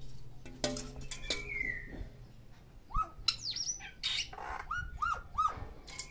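Several birds calling and chirping, with a mix of different calls: a falling whistled note about a second in, then a run of short arched chirps in the second half. A steady low hum lies underneath.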